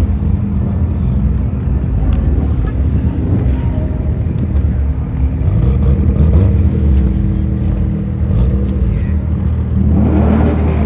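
Car engines running, a steady low engine drone with several pitched tones, and a quick swing in engine pitch near the end.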